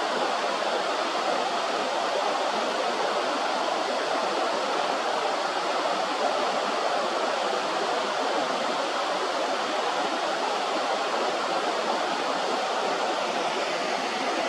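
Steady rush of flowing river water, an even noise with no breaks or calls.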